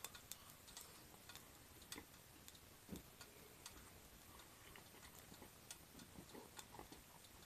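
Near silence with faint, irregular ticks and small pops, from a frozen nori-wrapped karaage piece frying on an electric hot plate.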